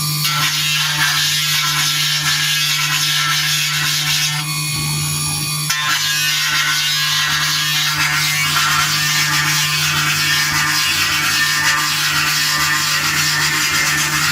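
CNC engraving machine's spindle and cutter working a silver plate: a steady, loud high-pitched cutting noise over a constant low hum, which changes briefly for about a second around five seconds in.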